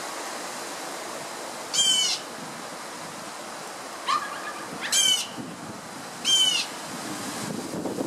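A bird giving three short, loud calls, the last two close together, with a fainter, lower call just before the second; wind noise on the microphone underneath.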